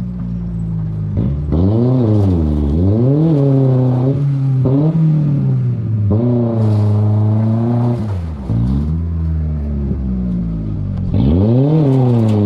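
A Ford pickup truck's engine revving hard and dropping back several times in a row, running loud and unmuffled because its exhaust has rotted off.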